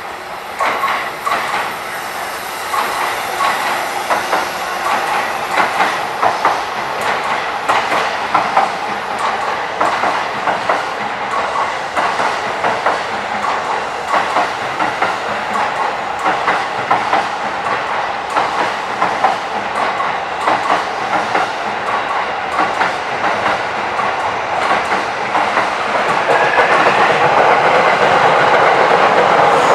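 JR commuter electric train running along the platform, its wheels clacking over the rail joints in a quick, regular beat, with the rail noise growing louder and fuller near the end.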